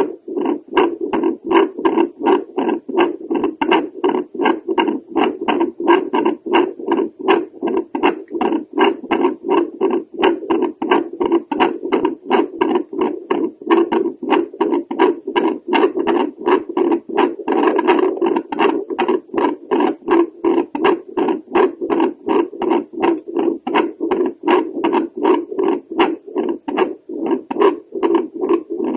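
Heartbeat through a home doppler held over the aortic valve: a fast, even train of whooshing pulses, several a second.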